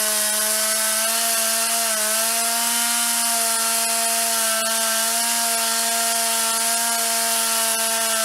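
Small two-stroke engine of a gas tree-trimming saw running at full throttle with a steady high whine while cutting limbs; the pitch sags slightly twice, around two and four and a half seconds in.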